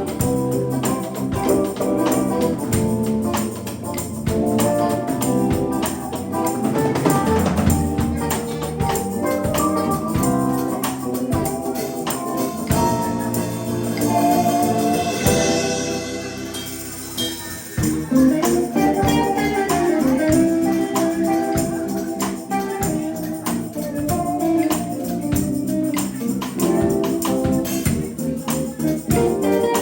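Live band playing an instrumental stretch of a jam, with sustained keyboard chords over a steady beat.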